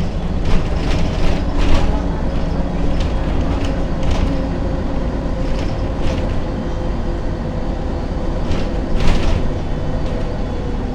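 Ikarus 280 articulated bus's diesel engine running with a steady low hum, with frequent short rattles and knocks.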